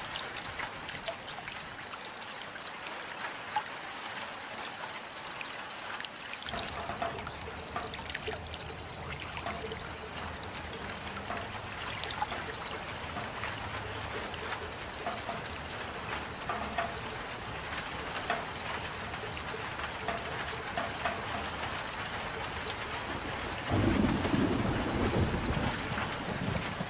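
Steady rain, a dense hiss with individual drops ticking through it. Near the end a louder low rumble comes in under the rain.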